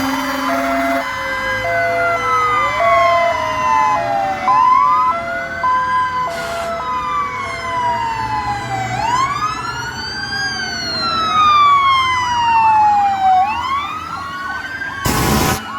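Several fire engine sirens sounding at once: slow wails rising and falling, overlapping with a two-tone hi-lo siren, and two loud horn blasts near the end.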